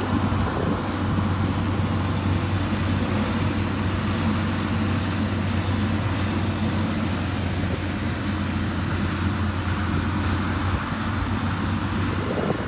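Heavy construction machine's engine running steadily, a constant low hum with no change in pace.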